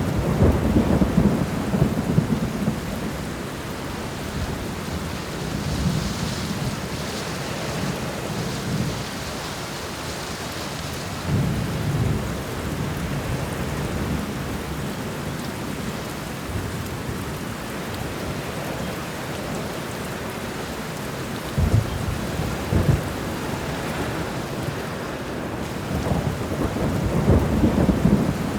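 Steady heavy rain with rolling thunder. The thunder swells in several low rumbles: near the start, a few times through the middle, a sharper crack at about 22 seconds, and a long rumble building near the end.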